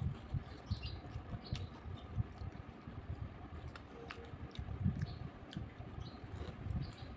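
Close-up chewing of crunchy fried farali chivda, with scattered sharp crunches and mouth clicks over a low rumble.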